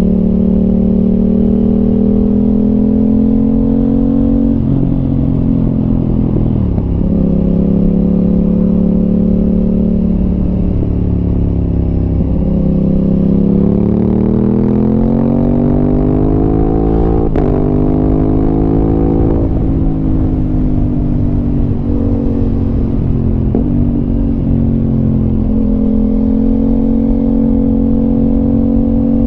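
Aprilia RS 660 parallel-twin engine running through an SC Project exhaust while riding. The engine note mostly holds steady, dips a few times, then climbs for several seconds as the revs rise through the middle before dropping back and settling.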